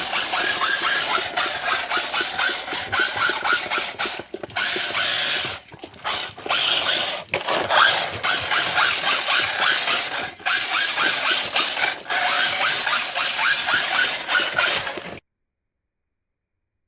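Small 1/16-scale RC rally car with a brushless motor and metal ring and pinion driving under throttle, a fast mechanical whirr and gear rattle that drops off briefly several times as the throttle is let off. It cuts off suddenly near the end.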